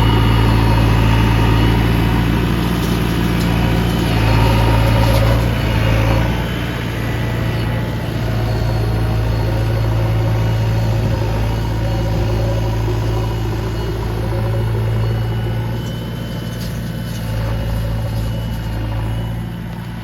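Heavy diesel engine running steadily at a low, even speed, a little louder in the first six seconds and then easing off.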